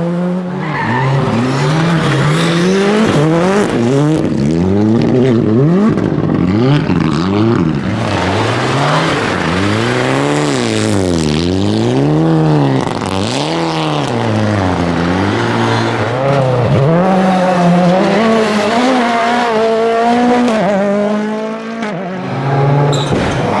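Rally car engine at full throttle. Its note climbs and drops again and again as the driver accelerates, lifts and changes gear, over steady noise from the tyres and surface.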